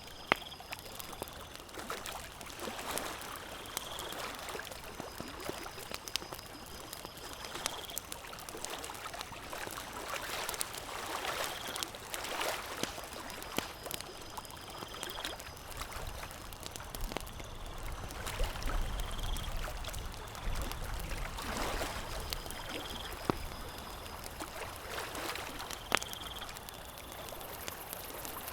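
Campfire crackling with scattered sharp pops, over a steady wash of lake water lapping.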